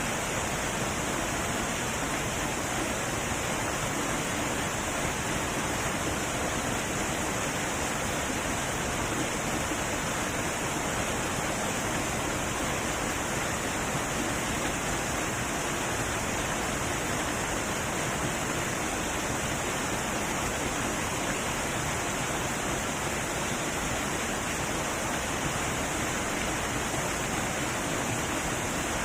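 Heavy waterfall, water rushing and crashing in a steady, unbroken roar of noise.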